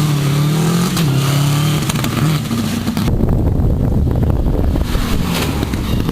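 Rally car engine revving hard, its pitch climbing and dropping through gear changes, then about three seconds in the sound turns to a dull low rumble with the treble suddenly gone.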